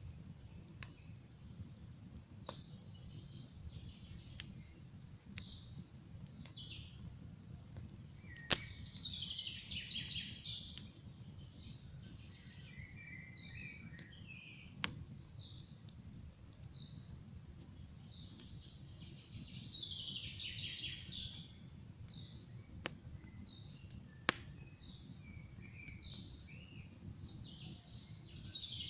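Campfire crackling, with sharp single pops every few seconds over a steady low rush. Forest birds sing over it: repeated short chirps and, three times, a louder trilled song phrase that falls in pitch.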